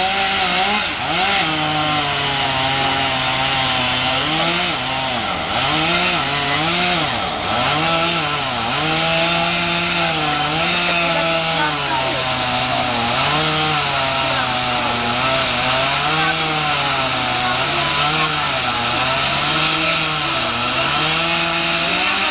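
Two-stroke chainsaw cutting through a fallen tree. Its engine pitch keeps sagging as the chain bogs into the wood and rising again as it clears, about once every second or two.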